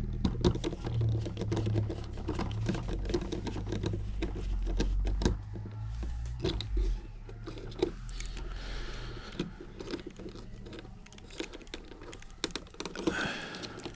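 Rapid, irregular small clicks and taps from hand work, over a low steady hum that fades about six or seven seconds in.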